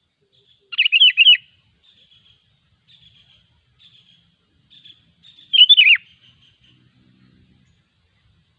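Sooty-headed bulbul singing: two short, loud phrases of quickly rising and falling whistled notes, about a second in and again about five and a half seconds in, with faint short chirps between them.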